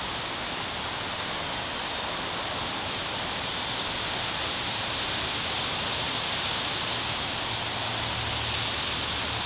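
Strong storm wind rushing steadily through trees, an even hiss of moving air and leaves.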